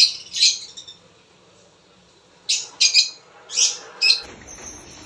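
African lovebirds calling in short, high-pitched chirps: two near the start, a pause of about a second and a half, then a quick run of about five.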